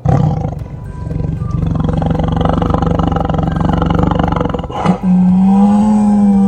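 A tiger roaring and growling, with background music; the sound breaks off briefly about five seconds in and starts again.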